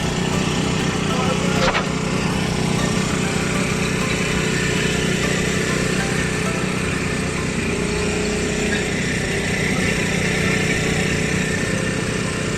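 A vehicle engine running steadily at one speed, with a constant rush of wind or road noise over it, and a single short click about two seconds in.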